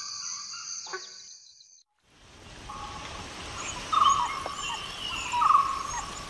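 A steady high cricket trill fades out. After a moment of silence, forest ambience starts with a bird repeating a short call about every second and a half.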